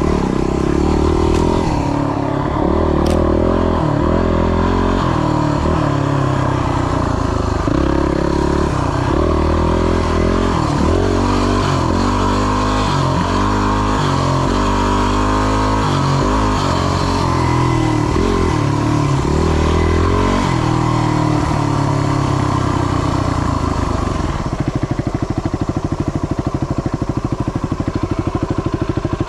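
Yamaha WR250 single-cylinder four-stroke dirt bike engine being ridden, its revs rising and falling again and again through throttle changes and gear shifts. About two-thirds of the way through it drops back to a steady idle.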